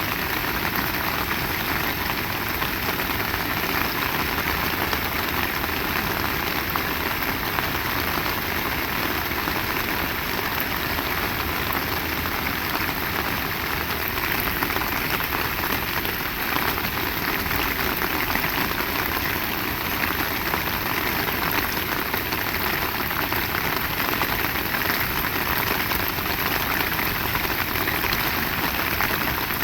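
Heavy rain falling steadily: a dense, even hiss of rain with no breaks or single impacts standing out.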